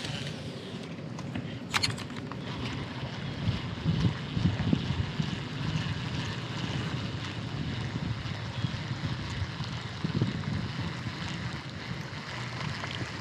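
Wind buffeting the microphone over the rustle of river water, with a sharp click a couple of seconds in.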